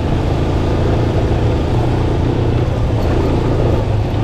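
Yamaha FZ-S V2's single-cylinder engine running steadily with a low, even hum, heard from a helmet-mounted camera.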